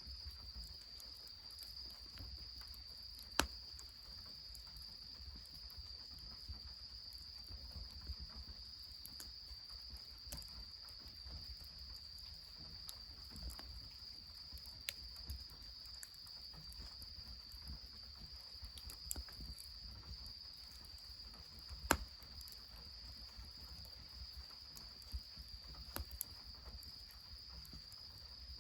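Insects chirring in one steady high, unbroken trill, with scattered sharp clicks and pops. Two of the pops, about three seconds in and about two-thirds of the way through, are much louder than the rest.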